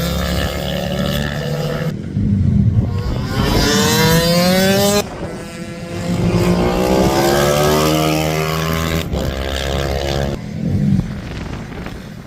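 Several racing minibikes running hard past, their small high-revving engines climbing in pitch through each gear and dropping at every shift, the notes overlapping as one bike follows another.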